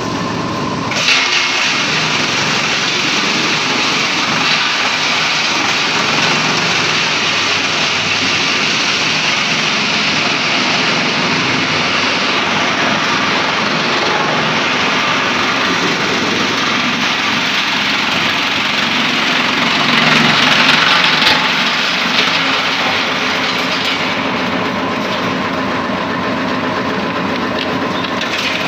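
Drum-type wood chipper running steadily, with a brief louder stretch about two-thirds of the way through.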